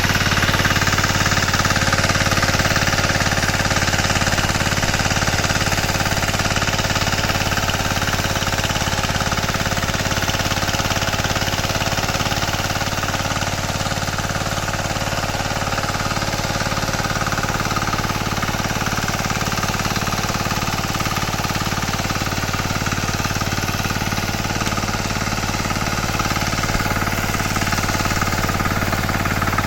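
Single-cylinder engine of a 9 hp Kama power tiller running steadily, with a fast, even chatter of firing pulses.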